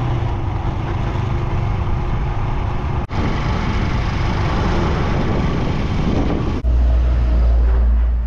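Motorcycle running at road speed with heavy wind noise on the microphone. The sound changes abruptly twice; the last stretch carries a deep, loud rumble.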